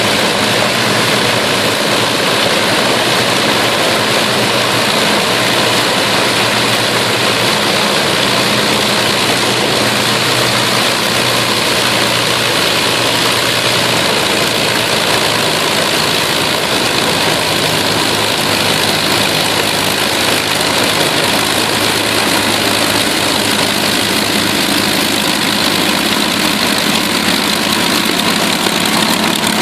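Avro Lancaster's Rolls-Royce Merlin piston engines running steadily at low power, with a slight shift in the engine note about halfway through.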